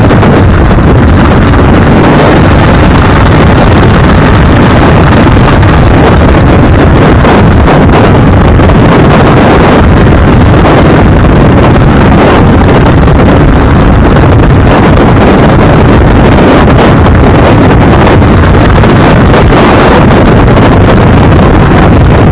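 Heavy, steady wind buffeting on the microphone over vehicle road noise, recorded on the move, loud enough to be pinned at full level throughout.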